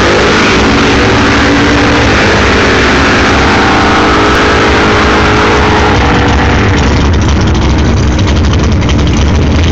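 Drag car's engine idling loudly, running steadily; from about seven seconds in its low rumble grows stronger and choppier.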